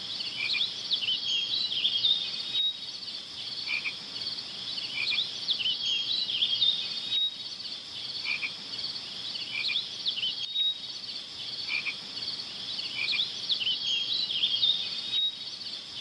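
Nature soundscape of frogs and insects calling in a dense, high chirping chorus that keeps going throughout, with shorter lower calls recurring every few seconds.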